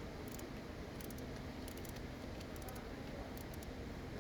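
Faint, irregular metallic clicks and light rattling of tools and engine parts being handled, over a steady low hum.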